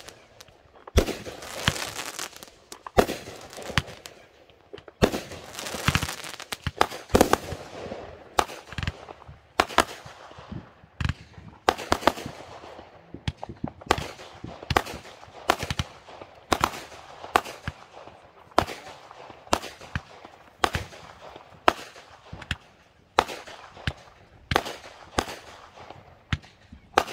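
Consumer fireworks going off in a chain: sharp bangs at roughly one to two a second, each followed by a fading crackle.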